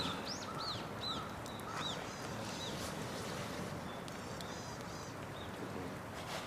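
Small birds calling: quick runs of short, arching chirps, then a few higher multi-note calls about four seconds in, over a steady outdoor background hiss.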